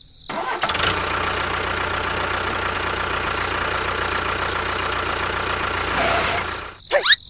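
A small engine or motor running steadily, like an idle, starting about half a second in and stopping near the end. It is followed by a brief rising whistle-like glide.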